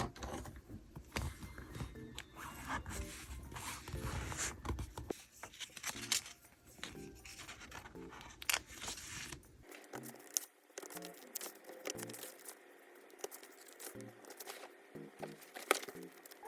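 Soft background music over close, crisp paper-craft sounds: paper and stickers scraping, tearing and snipping, with many small ticks and rustles from diary decorating.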